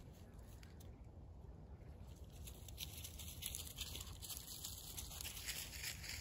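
Dry leaves rustling and crunching underfoot, faint light crackles that grow busier between about three and six seconds in, over a low steady rumble.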